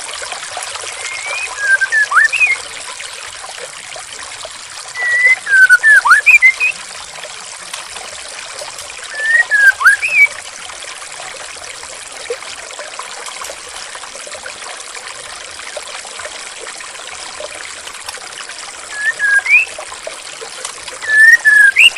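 Steady trickling of flowing water, with a songbird giving short whistled phrases of gliding notes five times, with a long gap in the middle.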